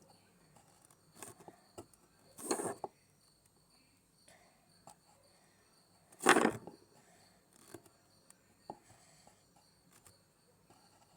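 Quiet handling noises from craft work at a table: scattered light clicks and two short noisy sounds, the second, about six seconds in, the loudest.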